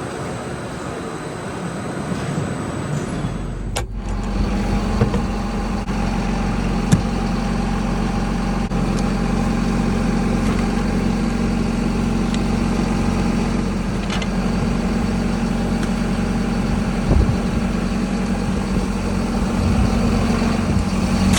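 Heavy potato-harvesting machinery running: a rough mechanical rattle for the first few seconds, then after an abrupt change a steady engine drone that holds an even pitch.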